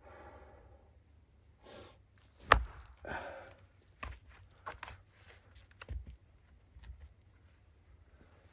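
One sharp, loud knock about two and a half seconds in, followed by a brief rustle and several lighter knocks and clicks.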